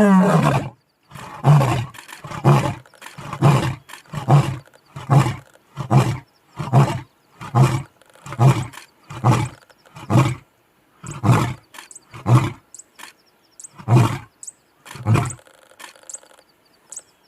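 A lion roaring: one long roar, then a series of short calls repeated a little under once a second, spacing out and stopping near the end.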